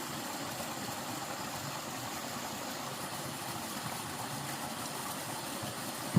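A motor running steadily, as an even mechanical noise, cut off at the very end by a sharp click.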